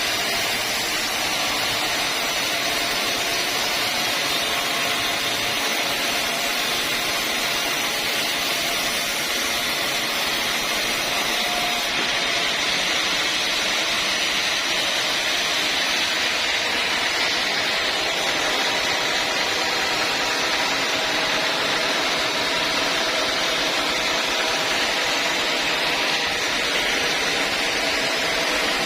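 Sawmill saw running steadily, a constant hissing machine noise with a faint hum under it and no break.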